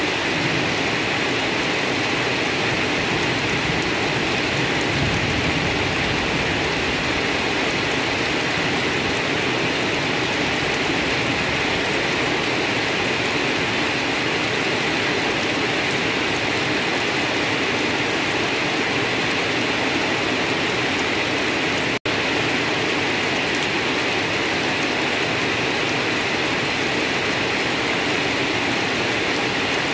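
Steady rain falling on grass and low undergrowth, an even hiss of many drops. It cuts out for an instant about two-thirds of the way through.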